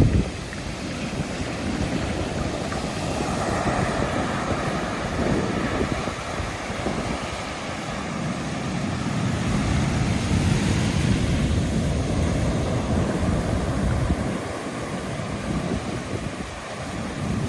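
Ocean surf breaking and washing up the beach, a steady rush that swells and eases every few seconds, with wind buffeting the microphone.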